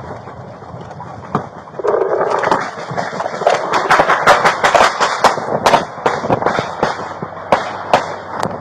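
A rapid volley of gunshots, many shots in quick succession over about six seconds, beginning with a single shot after about a second and a half.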